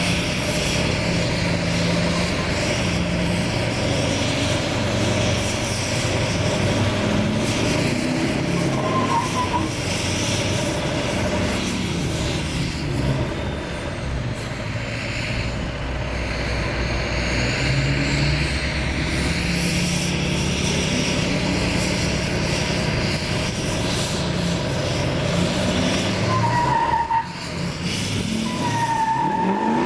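Truck engine running hard, with a high thin whistle that rises and falls slowly, and a rising rev near the end.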